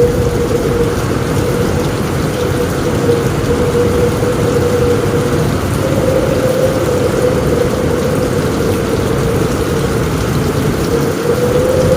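Steady heavy rain on a roof with a low rumble beneath it, and a steady, slightly wavering tone running through it.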